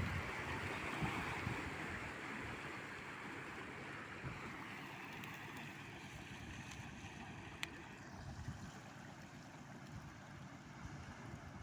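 Wake waves from a fast-passing river cruise ship washing against the riverbank, slowly dying away, with wind buffeting the microphone at the start.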